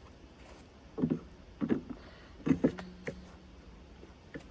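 About five dull metal knocks and clunks over two seconds as sawmill saw parts are handled and fitted, one followed by a short ringing tone.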